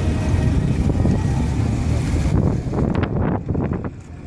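Vintage car's engine running low and steady as the car drives slowly past close by, with wind buffeting the microphone through the second half.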